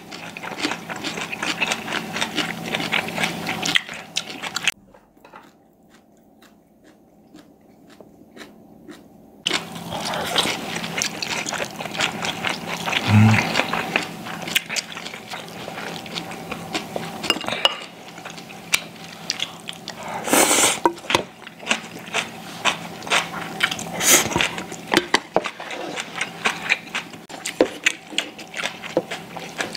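Close-miked eating sounds: chewing and biting into food, with frequent small clicks of chopsticks and a spoon against bowls and a few sharper knocks later on. The sound drops much quieter for about five seconds early in the stretch.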